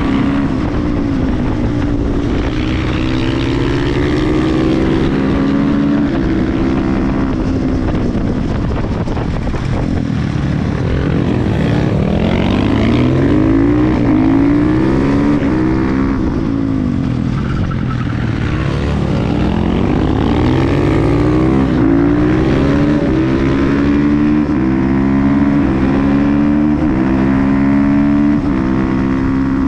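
KTM 350 EXC-F supermoto's single-cylinder four-stroke engine ridden hard. It revs up through the gears in repeated climbs, each cut short by a quick drop at the upshift. In the middle the revs fall away and sweep back up as the bike slows for corners and accelerates out.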